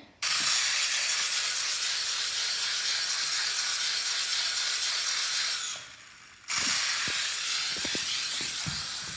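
Toy remote-control helicopter's small electric motor and rotors running with a steady hiss. It cuts out just before six seconds in and starts again under a second later, with a few light knocks during the second run.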